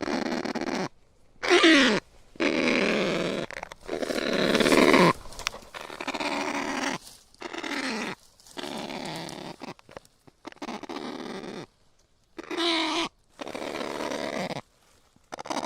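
Kakapo giving a series of hoarse, harsh calls, about a dozen, each under a second and separated by short gaps, some falling steeply in pitch.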